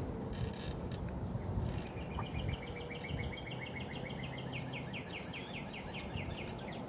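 A bird singing a long trill of quick, evenly repeated down-slurred notes that starts about two seconds in and runs for some four seconds, over a low outdoor rumble of wind and background noise. Two brief rustling noises come in the first two seconds.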